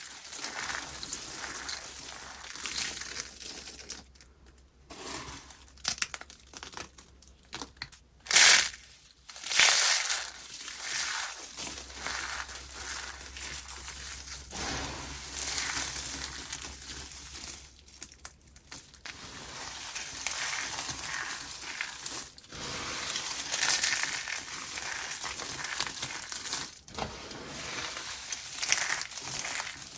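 Dry, brittle soap being crushed by hand, with a continuous run of crunching and crackling in uneven clusters. The loudest crunches come about eight and a half and nine and a half seconds in.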